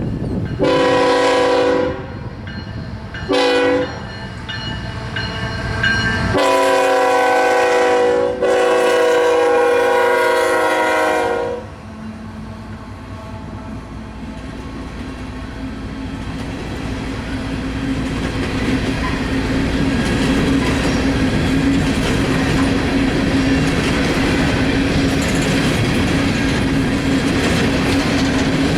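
Diesel locomotive air horn sounding a long, short, long, long pattern, the standard grade-crossing warning, followed by the train rolling by with wheels clicking over the rail joints, growing louder.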